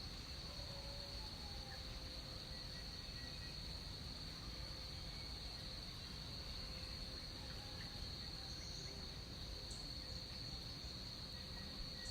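Rainforest insect chorus: a steady, unbroken high-pitched buzzing drone of crickets or cicadas, with a faint steady lower tone, a few faint short chirps here and there, and a low background rumble.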